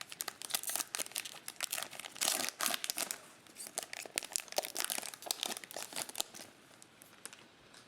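Plastic trading-card pack wrapper crinkling and being torn open, a dense crackle that thins out after about six seconds.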